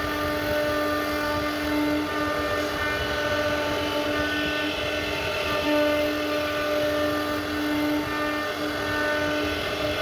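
CNC router spindle running steadily while carving wood, a constant pitched whine that dips briefly a few times.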